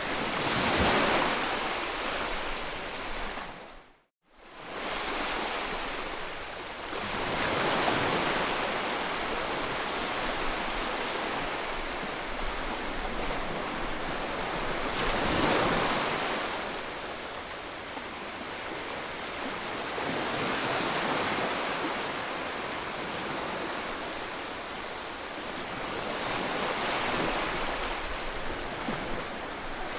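Sea waves breaking in a continuous wash of surf, swelling roughly every six to seven seconds. The sound drops out to a brief silence about four seconds in.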